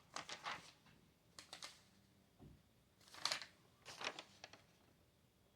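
Light clicks and taps in four short clusters over the first four and a half seconds, like keys being struck.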